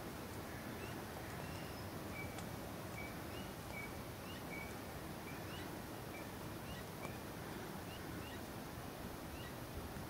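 Outdoor background of steady hiss with a small bird chirping: a string of short, high, upward-sliding chirps about twice a second. A single sharp click about seven seconds in.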